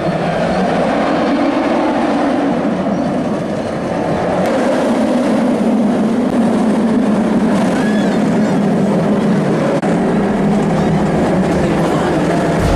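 A train rolling steadily on rails with a continuous rumble, like a ride train running along its track.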